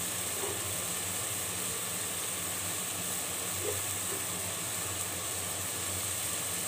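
Onion and tomato paste with spice powders frying in oil in a cooking pot, a steady sizzling hiss.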